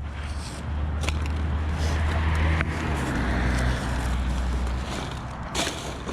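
Road traffic passing: a heavy vehicle's low engine rumble swells to its loudest about two and a half seconds in and fades by about five seconds. A few crackles and snaps sound close by.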